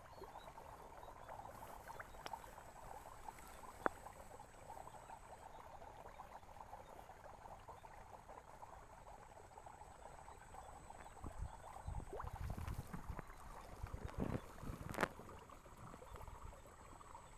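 Steady chorus of frogs and insects in a wet rice paddy, with louder sloshing and handling noises in water and mud for a few seconds later on, ending in a sharp click.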